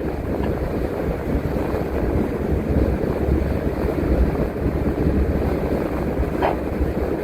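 Steady engine and road rumble of a city transit bus heard from the driver's seat while driving. There is one short pitched squeak or chirp about six and a half seconds in.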